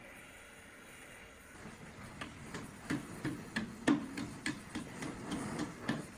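Hand work on metal: an irregular run of light knocks and scraping, about three a second, starting about two seconds in after a faint hiss.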